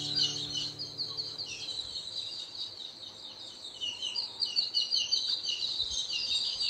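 Small birds chirping rapidly in a high, continuous twitter, while the last guitar note dies away just after the start.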